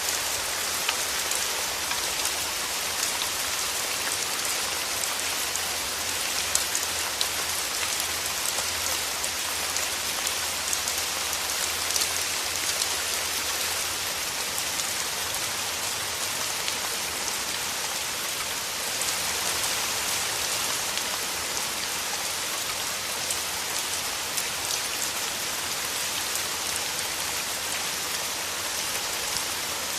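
Steady rain falling through forest trees: an even hiss with many separate drops ticking on leaves.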